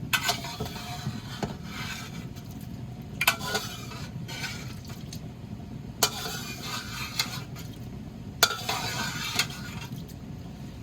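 A utensil stirring in a cooking pot of beans, scraping and with four sharp ringing clinks against the pot about every two to three seconds.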